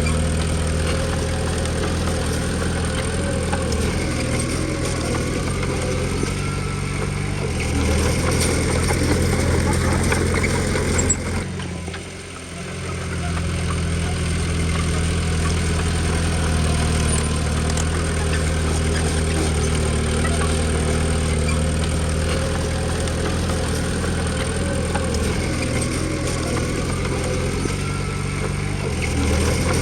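Komatsu D20P bulldozer's diesel engine running steadily, its pitch stepping up about seven seconds in and back down near the end, with a brief dip in the sound about twelve seconds in.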